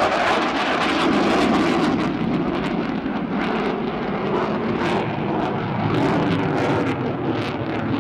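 Engine noise of a display aircraft flying past, steady and loud, with a rapid crackle running through it.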